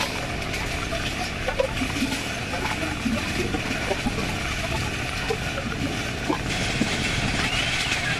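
Steady running noise of a passenger coach at speed on jointed track: wheel and rail rumble with light scattered knocks and rattles, and air rushing past the open window.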